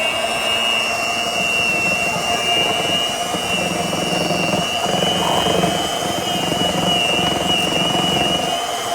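GUALIU 5-speed electric hand mixer running with a steady high motor whine.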